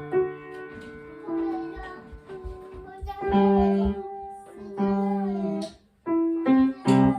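Piano playing a simple beginner's piece in short phrases of held chords and single notes, with a brief break about six seconds in.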